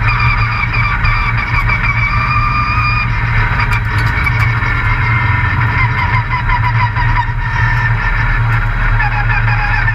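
Race truck's engine running hard, heard on board, its pitch shifting a few times as the revs change.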